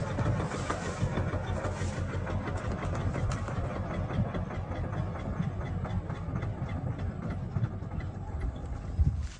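Combine harvester's diesel engine running steadily, a continuous low mechanical drone.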